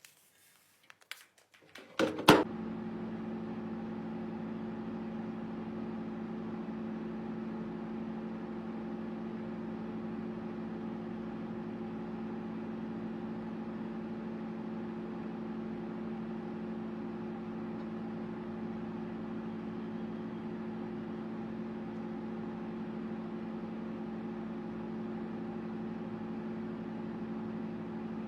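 A few light clicks, then a sharp loud click about two seconds in, after which a microwave oven runs with a steady, even hum.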